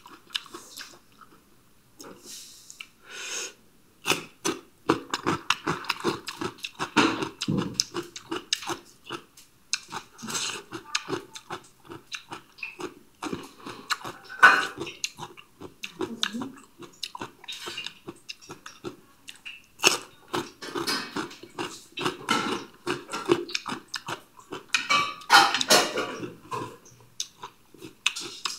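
Raw white radish being bitten and chewed close to a clip-on microphone: quiet for the first few seconds, then dense, irregular wet crunching and chewing from about four seconds in.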